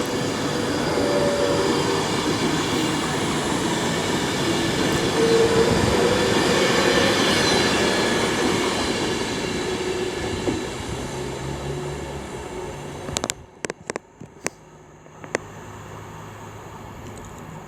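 A train passing through the station: a steady rush of wheels on rails that swells a little midway, fades, and stops sharply about thirteen seconds in, leaving a low hum with a few clicks.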